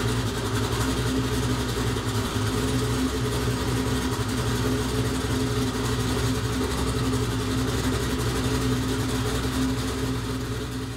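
A 427-cubic-inch twin-turbo V8 sand-car engine idling steadily, with an even low-pitched note.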